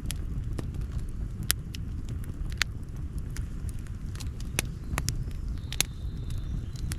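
Campfire crackling: sharp, irregular pops, more than one a second, over a steady low rumble.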